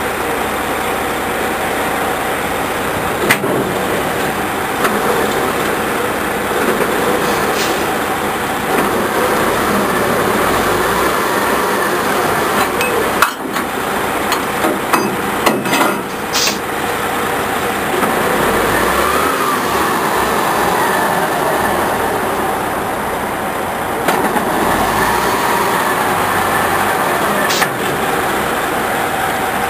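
Truck engine running steadily, with a handful of sharp knocks and clanks, several of them close together about halfway through.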